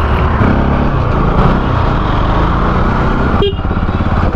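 Bajaj Pulsar NS200 motorcycle's single-cylinder engine running steadily under way, exhaust note heard from the rider's position.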